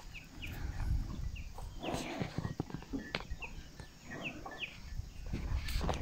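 Small bird chirping: short, high notes that slide downward, repeated every half second or so, over a low background rumble.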